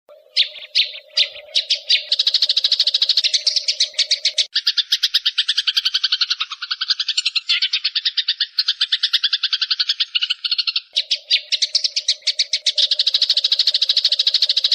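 Eurasian tree sparrows giving fast, agitated chattering calls as they fight: a few separate chirps that quicken into a dense run of about a dozen chirps a second. In the middle the chatter drops lower in pitch, and a faint steady hum sits beneath it in the first and last parts.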